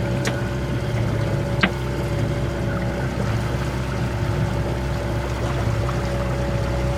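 A boat's motor running at a steady speed, with water rushing alongside. Two sharp clicks come in the first two seconds.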